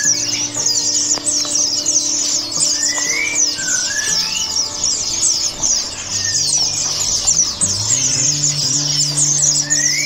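Dense, continuous chatter of high-pitched bird chirps, with a short rising whistled call repeating every few seconds, over background music with held low notes.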